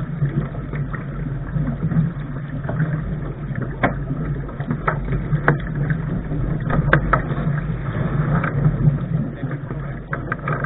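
Steady rushing wind and water noise on a Lark sailing dinghy under way, with a low rumble and a few sharp knocks or slaps in the middle.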